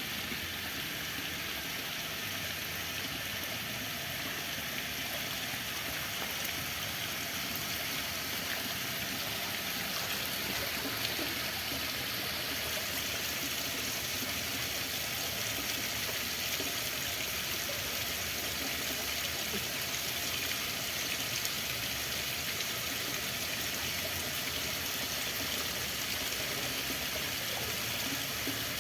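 Running water making a steady, even rushing hiss that does not change.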